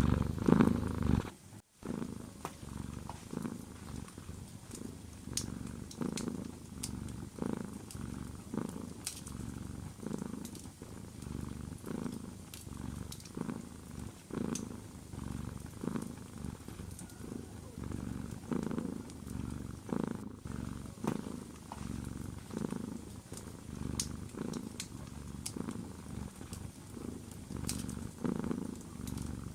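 Domestic cat purring close up, the purr swelling and fading with each in- and out-breath. It is louder for the first second and a half, breaks off briefly, then goes on steadily and a little quieter, with faint scattered fireplace crackles.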